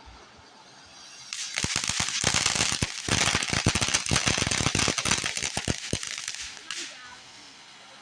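Consumer fireworks crackling: a dense, rapid string of sharp pops over a hiss starts about a second in, runs for about five seconds, then dies away near the end.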